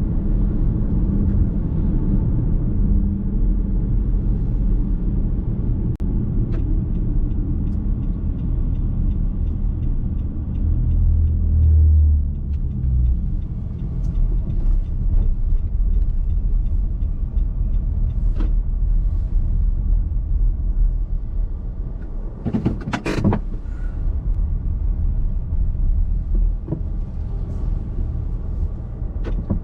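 Car driving on the road, heard from inside the cabin: a steady low rumble of tyres and engine, swelling briefly about twelve seconds in. About two-thirds of the way through comes one loud short clatter, like a bump or rattle in the cabin.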